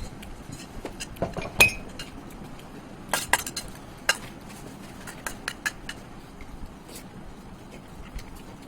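Eating sounds of a meal of rice and chicken liver curry: scattered light clicks and clinks against a dish, the loudest about one and a half seconds in, with a short ring after it.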